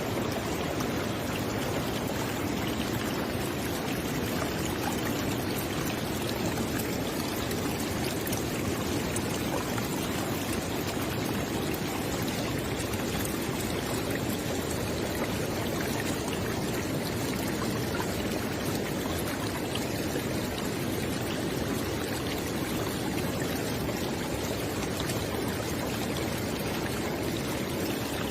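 River water flowing steadily, a constant rushing with faint splashes and trickles mixed in.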